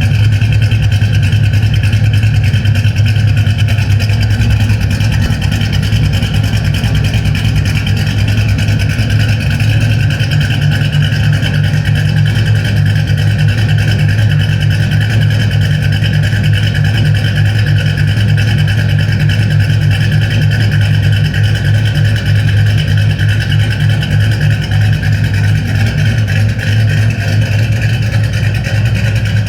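2006 Ford Mustang's exhaust through Spintech mufflers, the engine running steadily at idle with a deep, even rumble.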